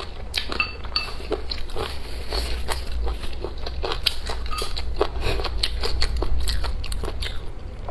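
A person chewing and biting food close to the microphone, with many small wet clicks and crunches. There are brief light clinks of tableware about half a second and a second in.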